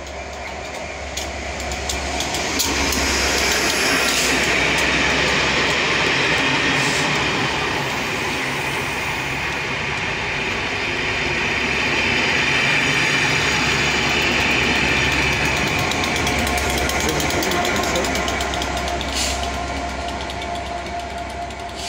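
Diesel-hauled Network Rail test train running through a station: Colas Rail Class 67 diesel-electric locomotives at each end, with inspection coaches between. The sound swells as the leading locomotive passes, eases as the coaches roll by, swells again for the rear locomotive, then fades as the train pulls away.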